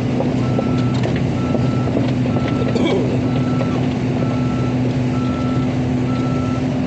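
Heavy-machine travel/backup alarm beeping at one steady pitch about once a second, over the steady running of a diesel engine.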